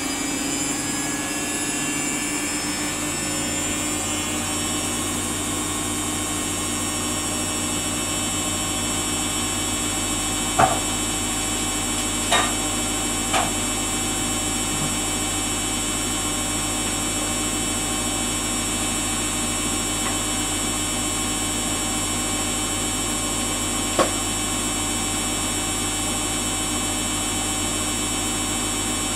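Samsung washing machine spinning at a steady speed: an even motor whine with several steady tones that settles in the first few seconds, with a few short knocks from the drum partway through.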